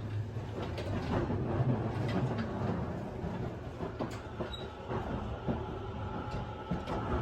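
Interior running sound of a Tobu 50090 series electric train's motor car at speed: a steady rumble of wheels on rail with scattered knocks and rattles. A thin steady tone joins in over the last couple of seconds.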